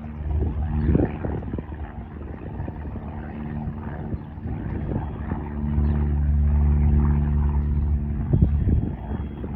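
A small propeller aircraft's piston engine running with a steady low drone, getting louder about halfway through.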